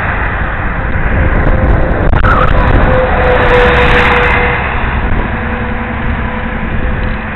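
Wind buffeting the microphone of a helmet-mounted camera on a moving bicycle: a loud, steady rumbling rush.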